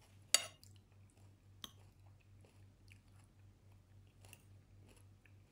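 Close-miked eating of chicken curry: a sharp click about a third of a second in, a smaller one about a second later, then faint chewing and mouth clicks. A low steady hum runs underneath.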